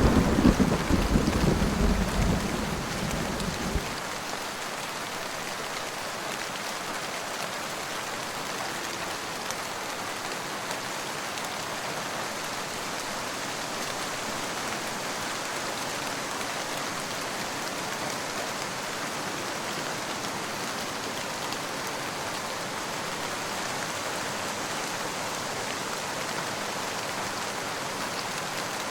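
Steady rain falling, with the tail of a thunder rumble fading out over the first few seconds.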